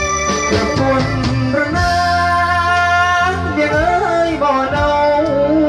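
Instrumental music from a Thai likay band: an electronic keyboard with an organ-like sound plays a wavering melody over held chords, bass and drum beats.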